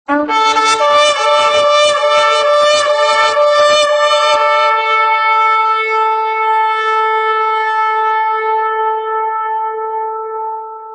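A shofar sounding one long blast: a rapid wavering, broken stutter for the first few seconds that settles into a steady held note, which fades out near the end.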